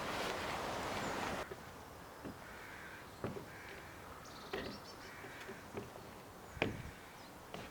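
A rasping rub that stops about a second and a half in, then faint hoarse bird calls and a few sharp knocks.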